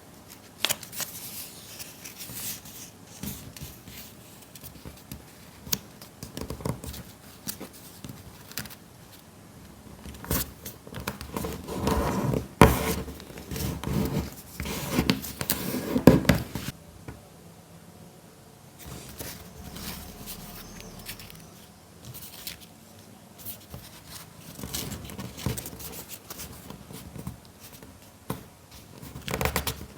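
Paper being handled and folded by hand: irregular crinkling, scraping and light tapping, busiest around the middle.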